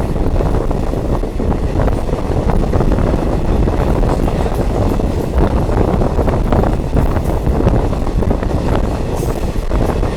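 Steady rumble of a diesel multiple unit train running, heard from on board, with wheel and track noise.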